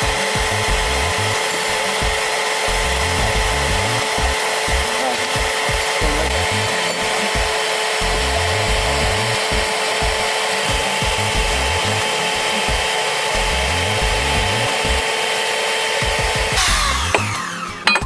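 Portable bandsaw running steadily as it cuts through a steel helical pier pipe, with a constant whine over the cutting noise. The saw stops near the end, followed by a few metallic clinks.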